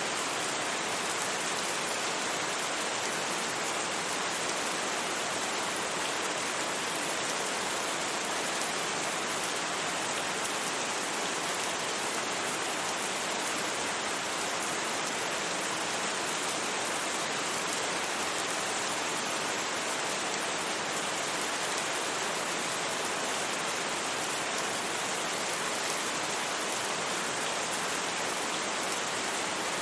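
Steady rain falling, a constant even hiss with no thunder and no single drops standing out.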